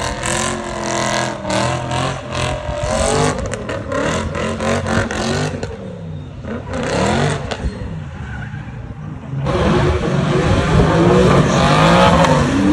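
Drift cars' engines revving hard as they slide sideways, the pitch sweeping up and down, with a rapid stuttering in the first few seconds. It is quieter in the middle, then suddenly louder again near the end.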